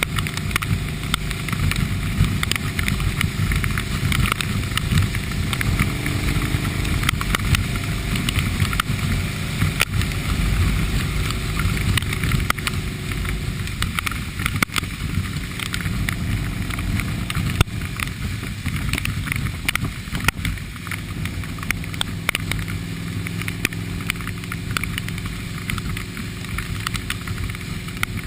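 Motorcycle engine running steadily while riding, under a continuous rush of wind and road noise.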